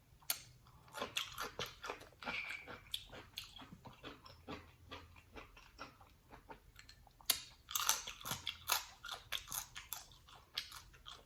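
Person eating a seafood boil close to the microphone: a run of wet chewing smacks, bites and crunches, with a louder cluster about seven seconds in.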